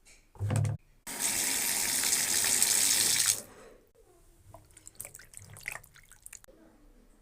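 Water running from a tap into a sink for about two seconds, then cutting off sharply, followed by scattered drips and small splashes. A brief thump comes just before the water starts.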